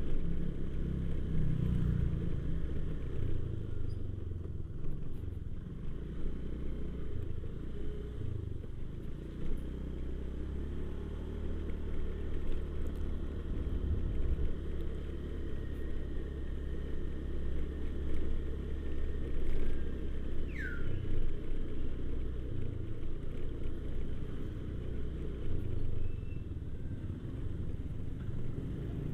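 Motorcycle engine running with a steady low rumble as the bike is ridden along.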